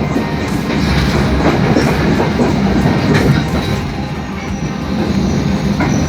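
Train running on the rails: a steady, loud rumble and rattle with irregular clicks from the wheels.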